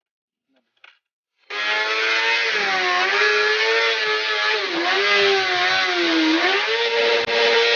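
Motorcycle engine held at very high revs, its pitch wavering and dipping briefly a few times as the throttle is eased and opened again. It cuts in suddenly about one and a half seconds in.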